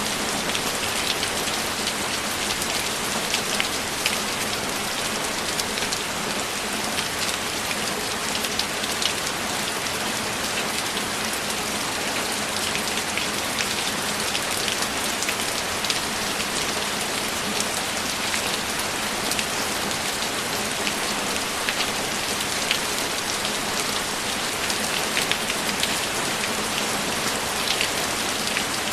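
Steady rainfall, an even hiss with many scattered sharper drop taps and no thunder.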